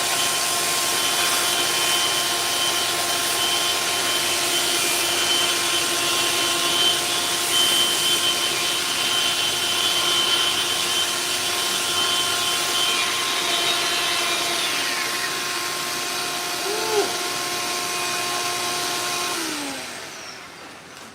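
Orbital sander running steadily against cured epoxy fairing compound on a steel hull, a constant whine over a sanding hiss. Near the end it is switched off and the whine drops in pitch as it spins down.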